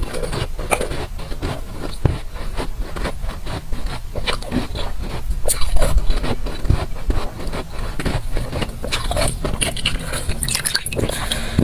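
Close-up crunching and chewing of water-bottle ice, bitten and ground between the teeth in a rapid run of crisp crunches.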